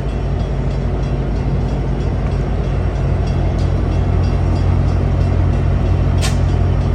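Amtrak F59PHI diesel locomotive's 12-cylinder EMD 710 engine running steadily with a deep, even drone while the train stands at the platform, getting a little louder about three seconds in. A brief sharp hiss comes near the end.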